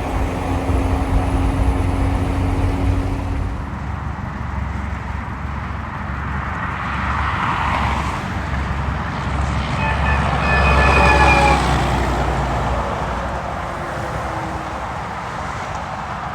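Road traffic with engines running. About ten seconds in, a vehicle passes closely with a pitched whine that drops slightly in pitch as it goes by.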